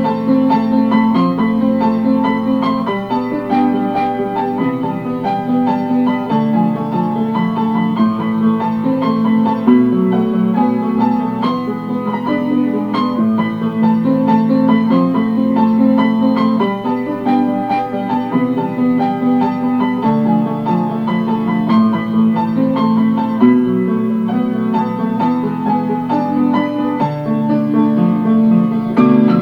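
Piano music: a melody over sustained chords.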